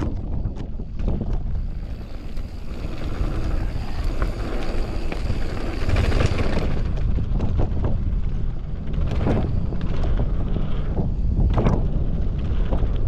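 Mountain bike ridden fast down a dirt downhill trail: wind buffets the microphone over a steady rumble of tyres on the ground. Sharp knocks and clatters come from the bike hitting bumps, with a louder stretch of rushing noise in the first half.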